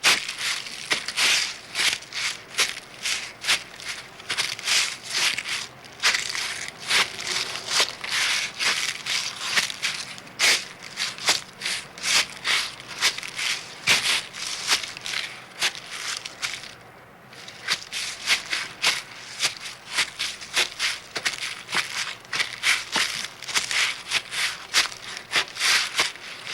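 Crisp, irregular crunching, several sharp crunches a second, with a brief pause about 17 seconds in.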